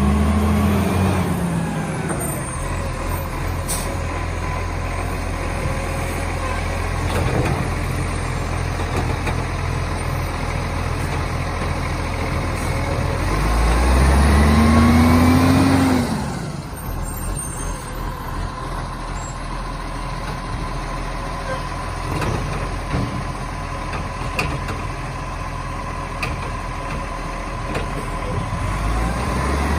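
Garbage truck's diesel engine idling, then revving up with rising pitch three times: near the start, loudest about halfway through, and near the end. A steady whine and a few short hisses run alongside.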